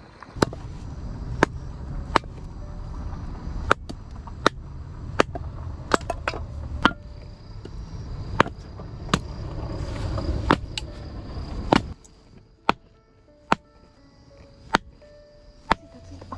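A series of sharp chopping knocks, roughly one a second, over a low rumble. Near the end the knocks thin out under light background music.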